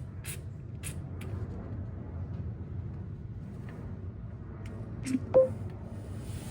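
Steady low rumble of a vehicle running, with a few faint clicks in the first second and a short, loud beep about five seconds in.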